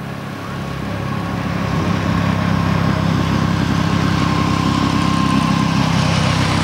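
Race car engine running steadily. It grows louder over the first two seconds, then holds.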